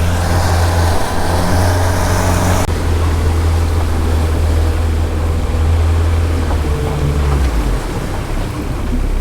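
A boat's motor running steadily under way, a low hum with wind and water rushing over it. The rushing hiss drops suddenly about two and a half seconds in, and the hum eases off near the end.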